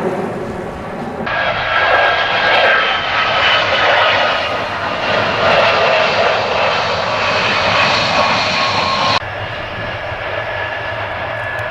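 Boeing C-17A's turbofan jet engines running, a loud rush of noise with a steady high whine in several tones. The sound changes abruptly twice, about a second in and again near the end.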